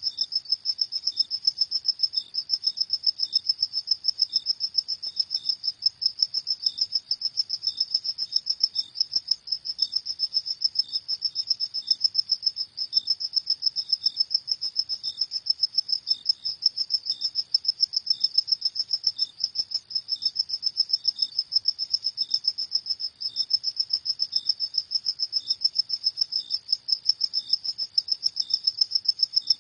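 Crickets chirping at night: one high, steady trill made of rapid pulses, with a second, fainter and slightly lower chirp repeating at an even pace.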